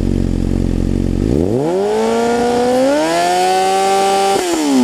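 2013 Honda CBR600F's inline-four engine, breathing through a Black Widow silencer with its baffle removed, revved from idle. The pitch climbs for about a second and a half and holds high. Near the end the throttle is shut and the revs fall away.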